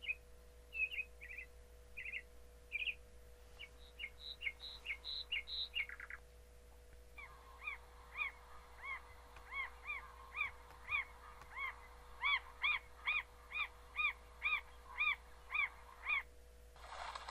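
Bird calls: a quick series of short chirps, then a run of repeated arched whistled notes, about two a second, that stops near the end.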